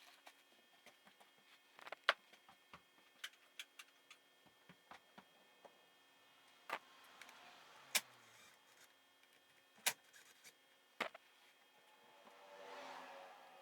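Scattered sharp clicks and clinks of hand tools and metal parts being handled while a Yamaha YZ85 two-stroke engine is taken apart, about seven separate knocks. A brief rustling swell comes near the end.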